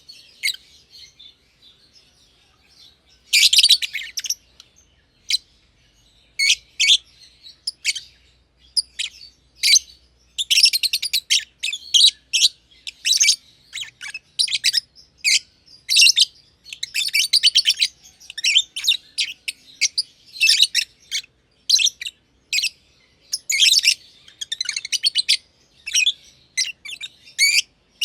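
Two masked lovebirds (black-masked, Agapornis personatus) chirping: rapid, shrill calls in bursts, sparse at first and then almost continuous from about three seconds in.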